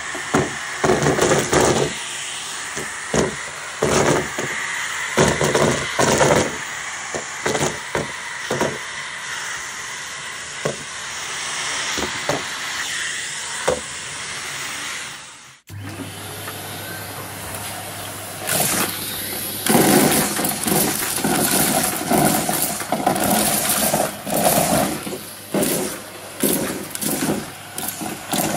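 Numatic Hetty tub vacuum cleaner running with a steady suction hiss, with many sharp crunching crackles as debris is sucked up. A little past halfway the sound cuts abruptly to another stretch, with a low hum under denser crunching.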